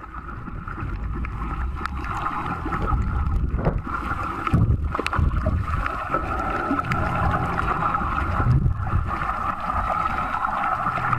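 Muffled underwater sound as heard by a camera below the surface while snorkeling: churning, gurgling water rumble with a steady droning hum running through it.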